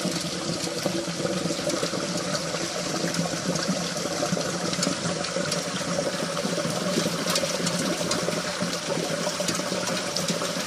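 Heavy rain falling steadily, with water streaming off the edge of a clay-tile roof and splashing onto wet paved ground. A dense hiss of countless drops, unchanging throughout.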